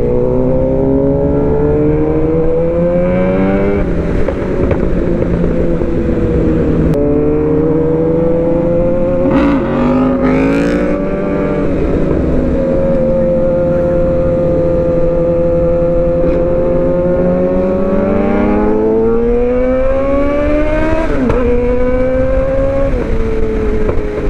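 Suzuki GSX-R750 inline-four, with aftermarket headers, midpipe and slip-on exhaust, accelerating through the gears. Its pitch climbs and drops sharply at each upshift, holds steady for a few seconds in the middle, then climbs through two more shifts near the end.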